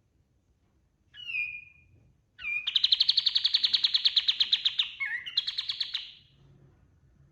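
Kapas tembak, a bulbul, singing: a short call sliding down in pitch, then a long, loud, rapid trill of about ten notes a second, with a brief break near the end.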